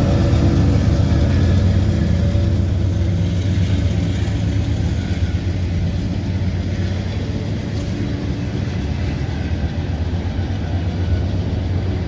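CSX freight train rolling past, a steady low rumble that slowly fades as the train's cars pull away toward its end.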